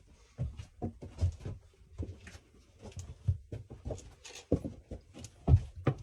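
Irregular knocks, thumps and clatter, several a second, the heaviest thuds about four and a half and five and a half seconds in.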